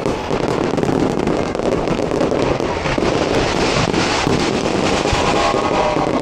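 Dense aerial fireworks barrage going off without a break: a continuous mass of overlapping bangs and crackles.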